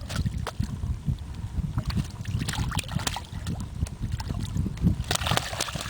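Water slapping against the hull of a small boat in a choppy, uneven rumble, with scattered short clicks and knocks, more of them in the second half.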